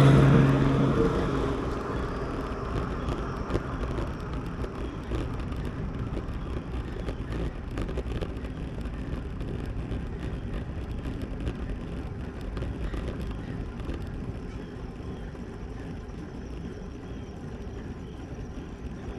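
A motor vehicle going past, fading away over the first couple of seconds. Then a steady rush of wind and road noise from riding a road bike, with scattered small ticks and clicks.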